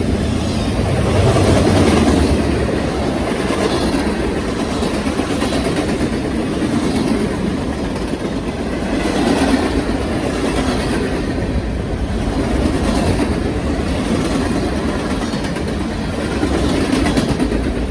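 Norfolk Southern freight train rolling past, its wheels clattering over the rail in a steady rumble that swells every couple of seconds.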